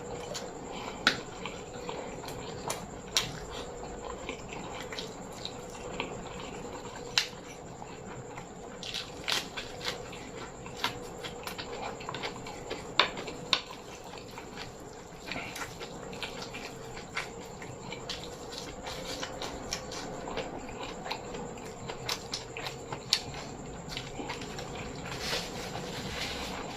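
Close-up chewing and mouth sounds of a person eating a rice meal: irregular wet clicks, smacks and small crunches, over a faint steady hum.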